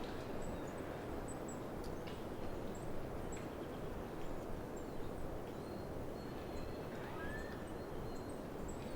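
Wind rushing through a pine forest, with the squeaky creak of swaying pine trunks rubbing, one short rising squeak about seven seconds in, and scattered faint clicks and ticks.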